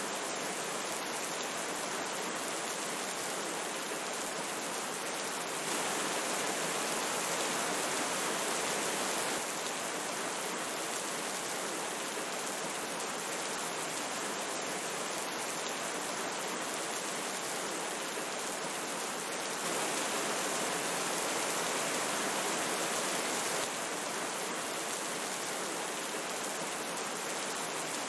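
Steady rush of river water mixed with rain, an even hiss with no separate drops or clicks standing out. It grows slightly louder twice, from about six to nine seconds in and again from about twenty to twenty-four seconds in.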